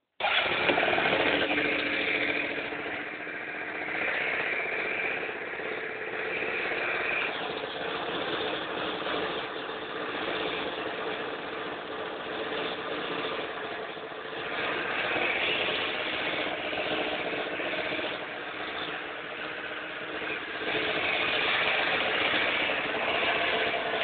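Keeway Hurricane scooter engine catching and then running, its level rising and falling a few times as it idles and is revved lightly.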